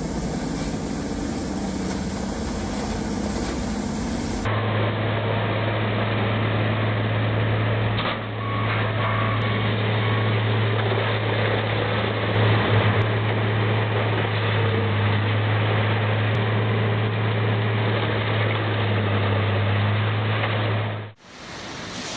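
Heavy wood-grinding machinery running steadily. About four seconds in it changes to a deep, steady engine hum that holds with little change.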